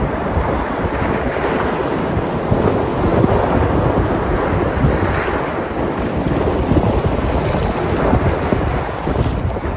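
Sea waves breaking and washing on the shore, a steady surf with gentle swells, with wind buffeting the microphone.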